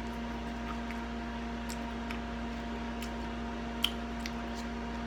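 A few faint, sticky clicks from handling and eating sauced barbecue ribs, over a steady electrical hum.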